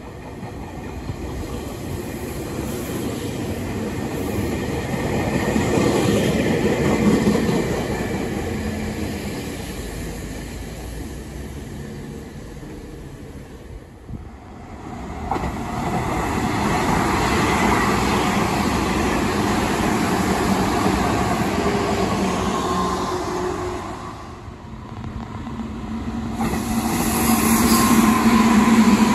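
Meitetsu electric trains running through a station, wheels rolling on the rails. One train swells and fades over the first half. After a break a second train grows steadily louder, with a steady whine from its running gear near the end.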